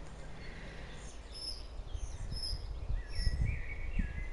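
Small birds chirping and calling at intervals, high and short, over a low rumble.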